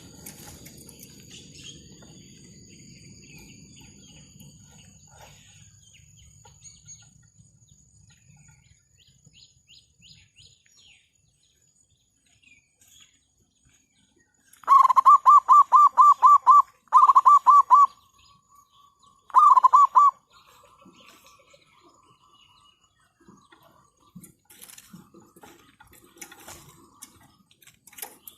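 Zebra dove giving its rapid staccato cooing. About halfway through come three loud runs of quick, evenly spaced notes at one pitch, with faint chirps around them.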